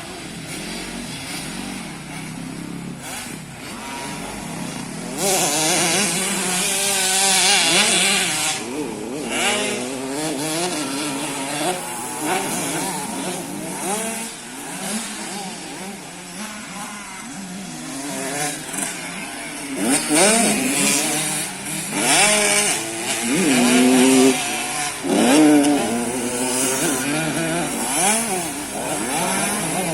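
Motocross dirt bikes revving hard and passing, several engines rising and falling in pitch over one another, loudest at about five to eight seconds in and again in the second half.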